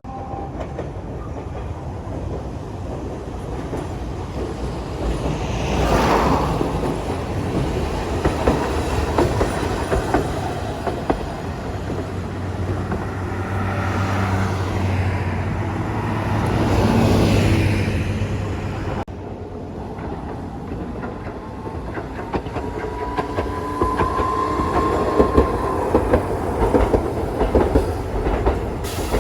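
Train running on rails, its wheels clacking over the rail joints, with an abrupt change in the sound about two-thirds of the way through.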